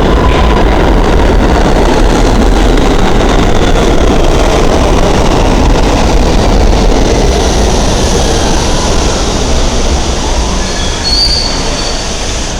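NYC Subway G train running along the track through the station: a loud, steady rumble and clatter of steel wheels on rail that fades from about two-thirds of the way through, with brief high wheel squeals near the end.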